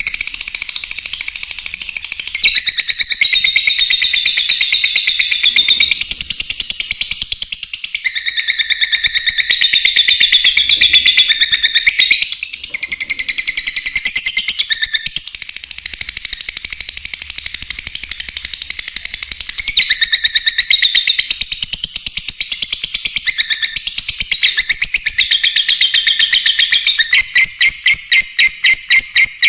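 Lovebirds chirping and calling in a dense, shrill, unbroken chatter. Near the end it turns into a fast run of even chirps.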